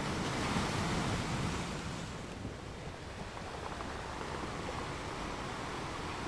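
Ocean surf washing along the shore, with wind on the microphone; a wave swells louder in the first couple of seconds, then the sound settles to a steady wash.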